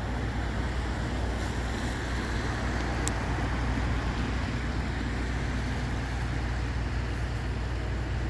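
A vehicle engine idling steadily with a low rumble, with traffic noise, and a faint tick about three seconds in.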